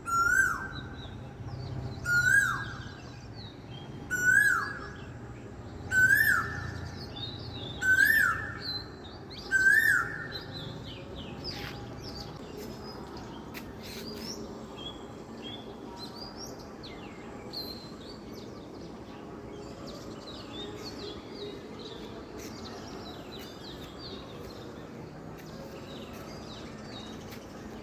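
Birds singing outdoors. One bird gives a loud, repeated call, a quick rising-and-falling note, six times about two seconds apart, then stops about ten seconds in, while softer chirps from other birds carry on.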